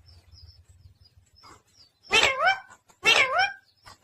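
Two short bark-like calls, about a second apart, each with a bending pitch.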